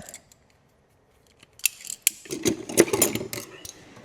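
Metal hand tools clinking and rattling: a quick series of sharp clicks and clatter starting about one and a half seconds in and lasting about two seconds.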